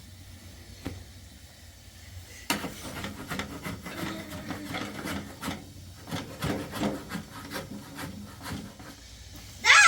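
Irregular rubbing and scraping against wood, starting suddenly about two and a half seconds in and going on in quick strokes. A high, squealing voice cries out right at the end.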